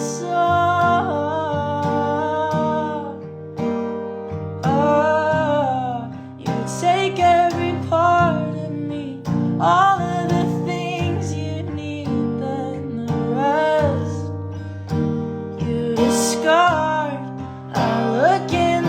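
A song with acoustic guitar chords under a singing voice holding long notes that bend and glide in pitch, with no clear words.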